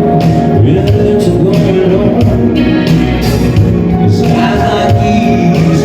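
Live band music played loud through a PA: a steady beat with bass, guitar and sung melody.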